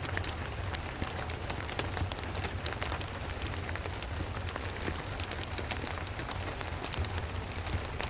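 Steady rain with a wood fire crackling: a dense scatter of sharp little pops and ticks over an even hiss, with a steady low rumble underneath.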